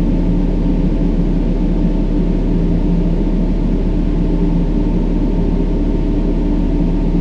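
Steady brown noise: an even, deep hiss weighted heavily toward the low end, without breaks or changes.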